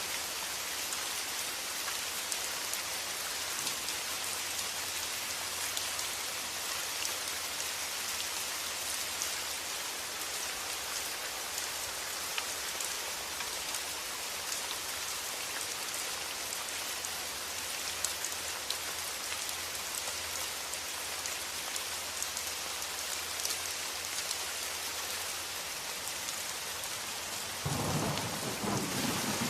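Steady rain with a dense patter of drops, and a roll of thunder breaking in near the end.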